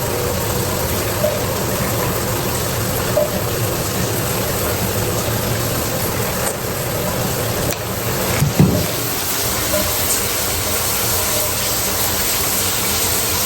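Water running steadily in a bathroom, a constant rushing hiss, with a brief knock about eight and a half seconds in.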